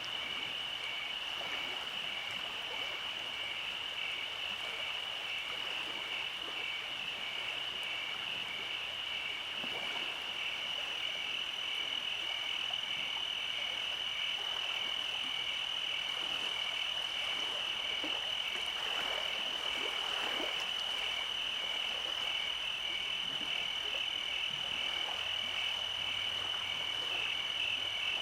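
A steady night chorus of frogs: a continuous high trill with a pulsing note beneath it about twice a second, over a faint background hiss.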